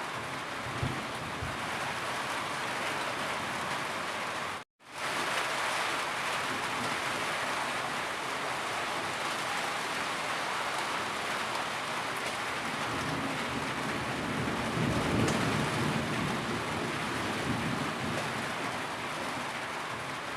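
Steady, heavy rainfall hissing evenly. It cuts out to silence for a split second about five seconds in, then resumes.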